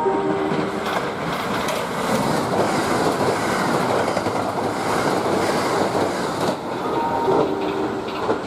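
Train running through the station, a steady rail rumble with wheel clatter that builds about a second in and eases off after about six and a half seconds. Short chime tones sound at the start and again about seven seconds in.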